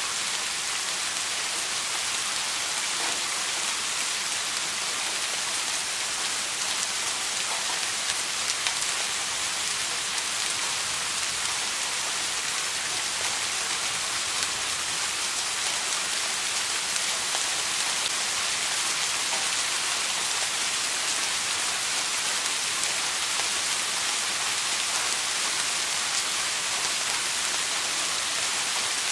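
Steady rain falling on a surface, an even hiss of many drops with no let-up and no thunder.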